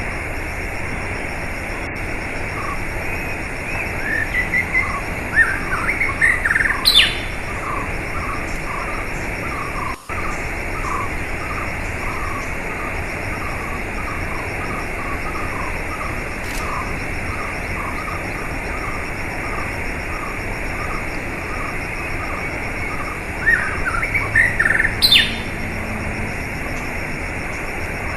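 Steady rush of running water with wild birds calling over it: a string of short repeated chirps about twice a second, and twice a louder rising phrase that ends in a sharp high sweep.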